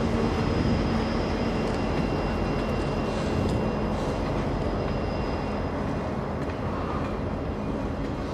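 Freight train rolling past, a steady rumble of wheels on rail that slowly grows quieter.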